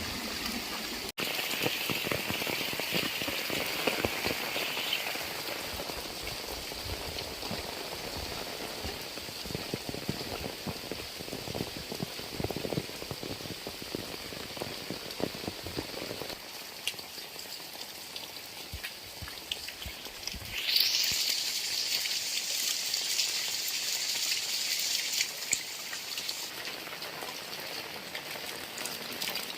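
Heavy rain falling, with many close drop impacts over a steady hiss. About two-thirds of the way through, a louder, higher hiss of rain comes in suddenly.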